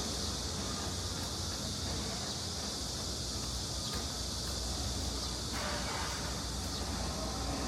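Steady outdoor ambience by an urban stream: a constant high hiss over a low rumble of city traffic.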